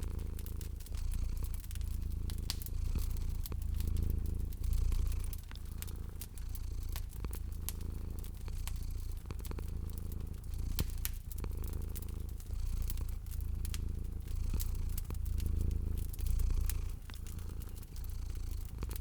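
A domestic cat purring steadily, the low rumble swelling and easing with each breath, while a wood fire crackles with scattered sharp pops.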